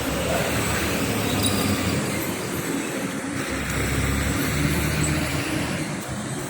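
Steady road traffic noise, with a motor vehicle's engine running close by.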